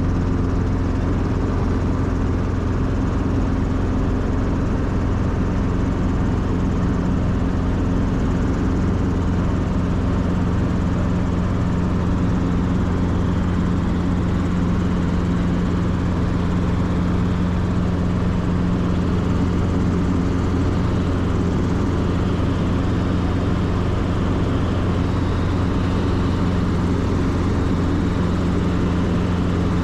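Piston-engine helicopter running steadily, a constant engine and rotor drone with a few low hums.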